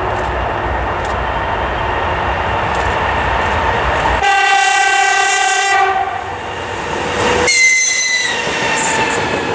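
Electric locomotive hauling a double-deck passenger train, approaching with a steady rumble. About four seconds in it sounds a horn blast lasting nearly two seconds; a second, higher-pitched whistle blast follows near the end as the locomotive and coaches pass with wheels clattering on the rails.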